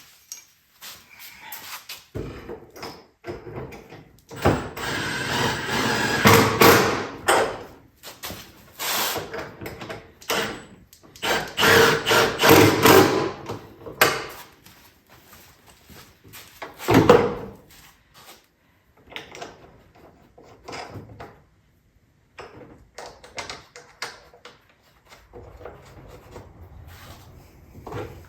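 Irregular knocks, clatters and scrapes of hand work on an ATV, with louder stretches of rattling and scraping about five, eleven and seventeen seconds in.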